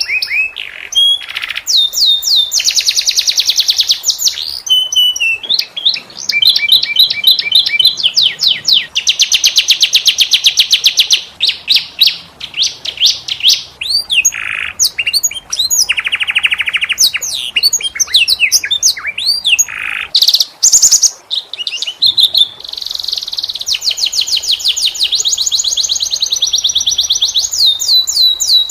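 Canary singing a long, continuous song of rapid rolling trills, fast repeated notes and sweeping whistles, with a few short pauses and brief lower, rougher notes midway.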